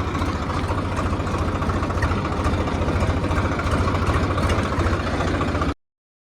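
Tractor diesel engine idling steadily with a fast, even low pulse, just after being started. The sound cuts off abruptly near the end.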